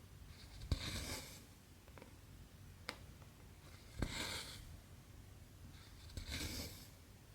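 Cross-stitching: three times, the needle pierces the fabric with a sharp tick and cotton thread is drawn through it with a short rasp, every two to three seconds, with one lone tick in between.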